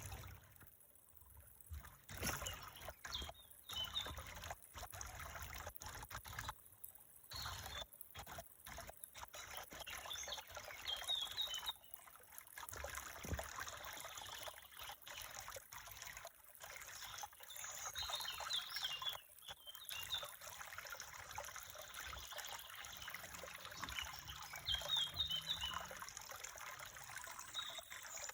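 Water trickling in a small stream, with a few short high chirps now and then.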